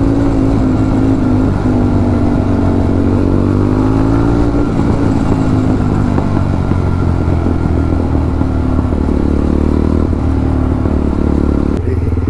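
Jawa 42 motorcycle's single-cylinder engine running loud through an aftermarket silencer, held at a steady pitch while riding. Near the end the revs drop off sharply and the exhaust settles into a quick, even thudding.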